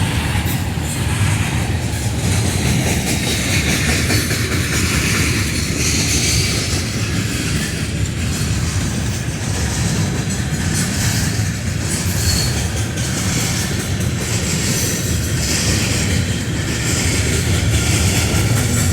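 Freight train cars rolling past close by: a steady, loud noise of steel wheels running on the rails.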